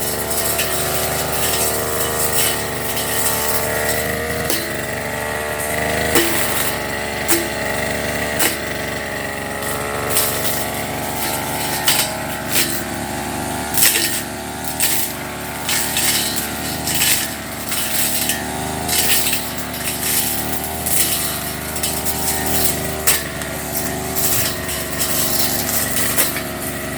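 Firman FGB389FI brush cutter running steadily, its engine note holding, with frequent short, sharp strikes as the spinning cutter cuts through grass.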